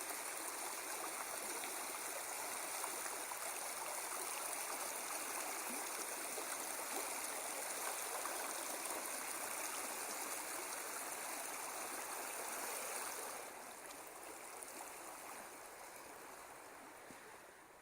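Steady rushing of a stream's flowing water, dropping in level about three-quarters of the way through and fading towards the end.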